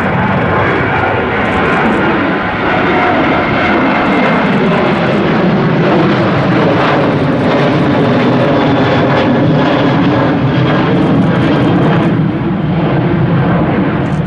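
Jet aircraft engines running loud and steady as a plane passes close by, the pitch slowly sliding down and back up.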